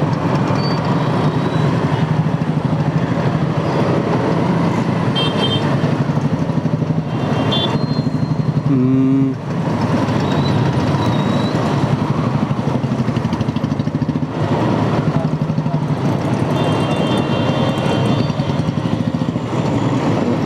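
Motorcycle engine running steadily at low speed in heavy traffic, with road and wind noise. Other vehicles' horns toot several times: short high beeps around five and eight seconds in, a lower horn around nine seconds, and a longer beep near the end.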